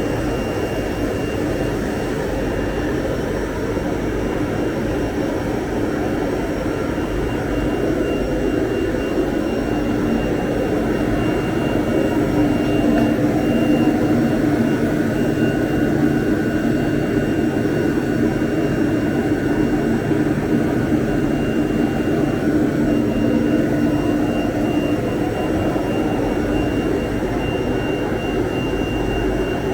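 CNC router running steadily, a constant whine over a rushing noise.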